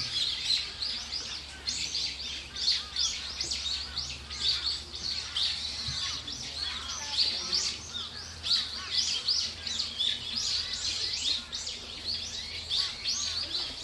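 Many small birds calling and singing at once: a dense chorus of short, high chirps and quick twittering phrases overlapping without a break.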